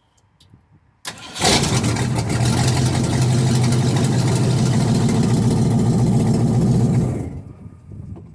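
1990 Ford Econoline E350 engine started with its exhaust removed: a short crank about a second in, then it catches and runs loud and raw through the open exhaust, and is shut off about seven seconds in.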